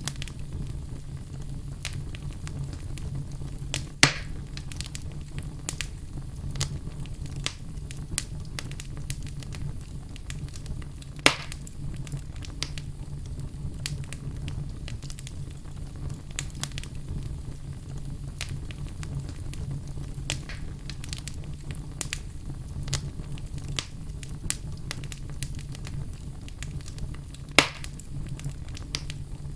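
Wood fire burning in a fireplace, crackling steadily with many small snaps over a low steady rumble, and three louder sharp pops spread through.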